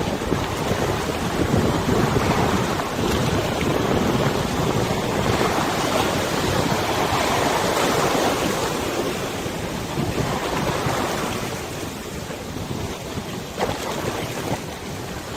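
Wind buffeting the microphone over river water washing and lapping, swelling in the middle and easing off later.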